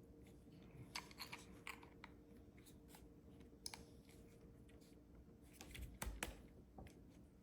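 Faint, scattered clicks and taps of small plastic parts being handled as a battery is fitted into the back of a handheld digital anemometer, with a soft thump about six seconds in, over a faint steady hum.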